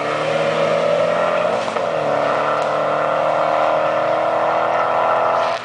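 Street-racing cars running at high revs as they accelerate away down the road. The engine pitch dips and climbs again about two seconds in.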